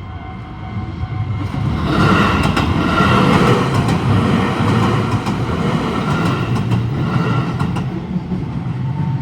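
A train passing over a level crossing, getting loud about two seconds in, with the wheels clacking over the rail joints. The crossing's warning bell rings throughout, heard plainly before the train drowns it out.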